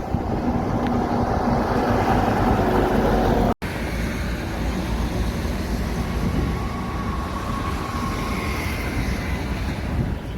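Heavy trucks passing on a road: steady engine and tyre rumble. Just over three seconds in, the sound cuts out for an instant and then resumes.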